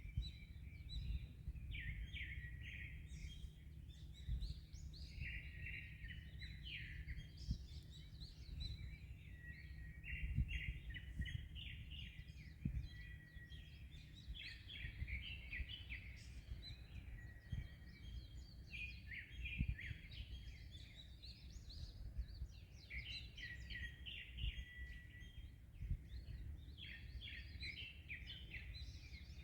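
Several birds chirping and singing in quick repeated phrases throughout, over a steady low rumble of wind and surf.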